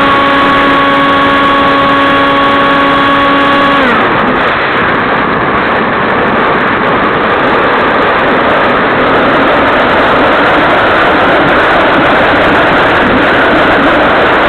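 Electric motor of an AXN Clouds Fly RC plane whining steadily at throttle, heard from on board. About four seconds in the throttle is cut: the whine drops in pitch and gives way to loud wind rush as the plane glides. Near the end the motor whine begins to rise again.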